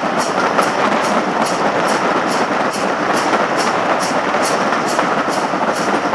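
Steam-hauled heritage passenger train running, heard from an open carriage window: a steady rushing rumble with a regular beat about twice a second.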